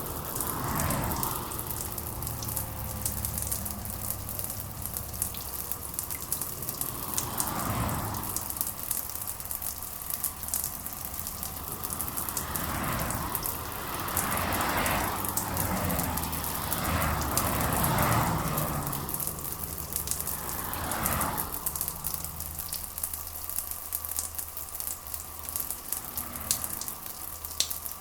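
Steady rain falling, with a dense crackle of individual drops, a low steady hum underneath, and several passing swells of louder noise in the middle.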